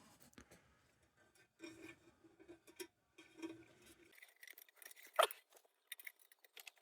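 Faint workbench handling noises as the tin lantern's parts are set in place: light scrapes, rustles and small clicks, with one sharper click a little past five seconds in.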